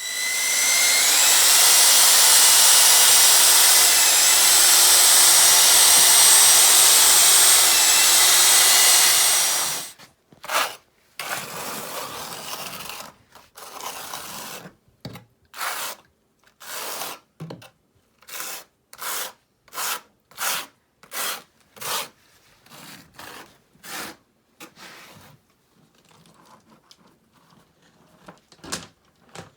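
Electric drill with a paddle running steadily at one pitch for about ten seconds, mixing mortar, then cutting off suddenly. After it come about twenty short scraping strokes, roughly one a second, growing fainter near the end.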